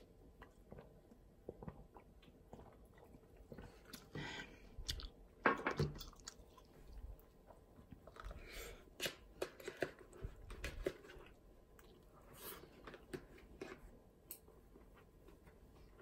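Mouth sounds of eating: chewing with some crunching, in irregular bursts, plus small scattered clicks of chopsticks and a plastic spoon against the food containers.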